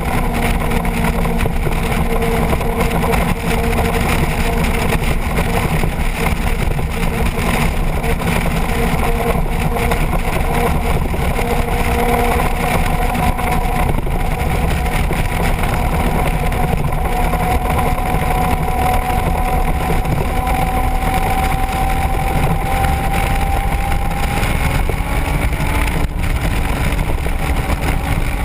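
Motorcycle engine running at steady road speed, with heavy wind rush on the microphone. The engine note climbs slowly for a while in the middle, then holds.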